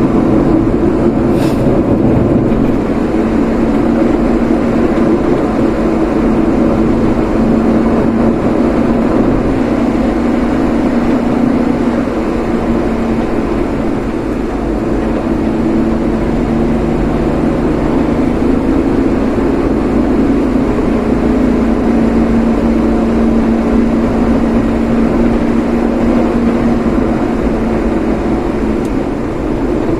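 Vehicle on the move: a steady engine hum and road noise, with a faint click about a second and a half in.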